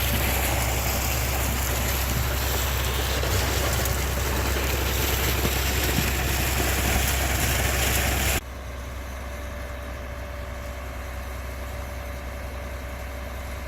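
Concrete pump truck's engine running steadily with a deep hum. About eight seconds in the sound drops suddenly, and it carries on more quietly.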